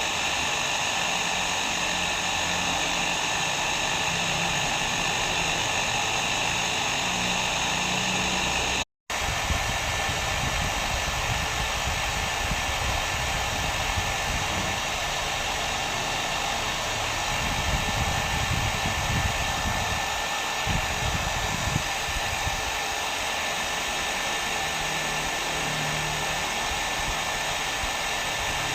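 Hair dryer running steadily on a continuous blow, an even rushing noise with a faint high whine. It cuts out completely for a split second about nine seconds in, then carries on.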